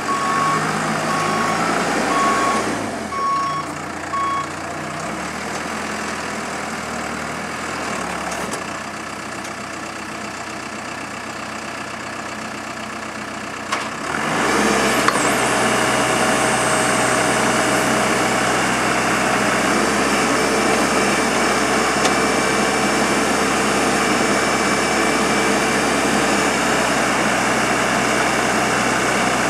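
Komatsu WB142 backhoe loader's diesel engine running, with its reversing alarm beeping for the first few seconds. About halfway through the engine revs up and holds a louder, steady speed, with a whine over it.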